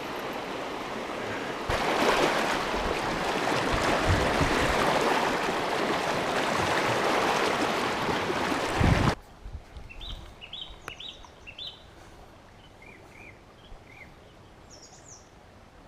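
A steady, loud rushing noise that cuts off abruptly about nine seconds in. What follows is quiet, with a small bird chirping a quick run of short notes, then a few more scattered chirps.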